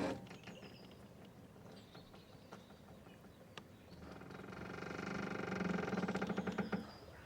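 A boat's rope squeaking under strain. A short creak at the very start, faint ticks after it, then a long stuttering squeak that swells from about four seconds in and is loudest near the end.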